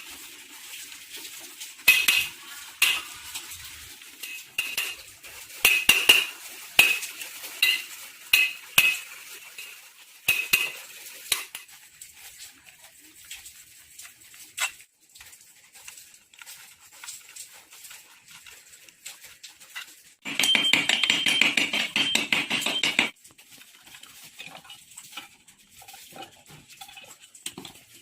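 Metal tools clinking and tapping with a ringing note against the rusted steel parts of a 1980 Yamaha V80 moped, dense at first and then sparse. About twenty seconds in there is a steady rasping, ringing noise that lasts about three seconds and cuts off suddenly.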